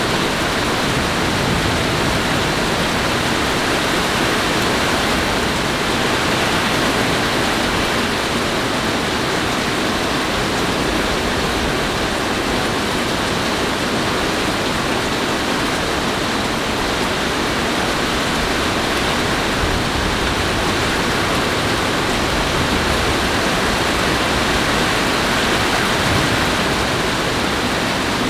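Steady, even hiss of heavy rain, with no thunder claps or separate impacts.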